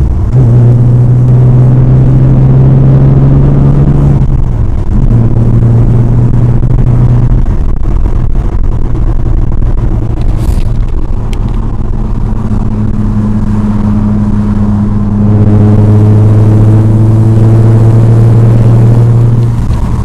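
BMW E36's engine and exhaust, fitted with a new muffler, running with a loud, steady drone. The pitch and loudness change a few times, and the note is loudest for the last few seconds.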